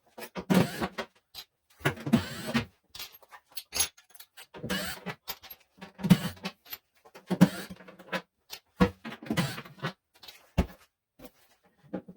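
Irregular clatter of short knocks, clicks and rattles, about a dozen bursts with gaps between them, from hands working on wooden and metal parts of a shop cart.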